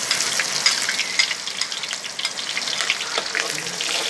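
Sliced shallots (bawang merah) sizzling and crackling in hot frying oil in a wok, just tipped in. It makes a steady hiss dotted with sharp little pops.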